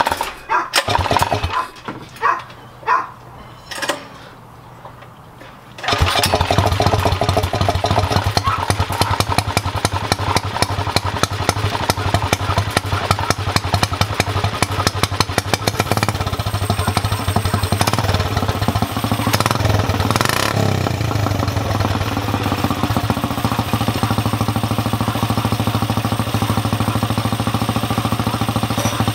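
A few knocks, then about six seconds in a go-kart engine fitted with a motorcycle exhaust starts and runs at idle with a rapid, pulsing beat, revved up and back down once about two-thirds of the way through.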